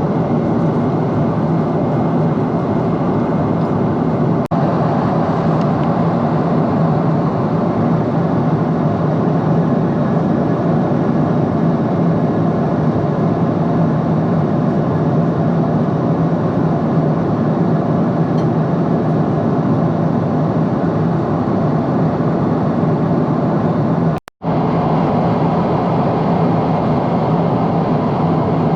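Steady cabin noise from inside a Boeing 777-300 airliner in flight: an even engine and airflow rush, heaviest in the low range. It cuts out completely for a moment about 24 seconds in.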